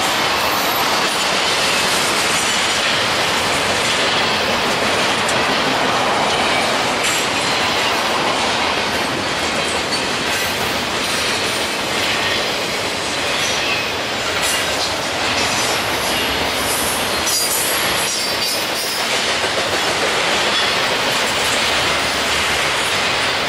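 Norfolk Southern freight train rolling past close by: a steady, loud rumble of wheels on rail with a continuous run of clattering clicks from the passing cars.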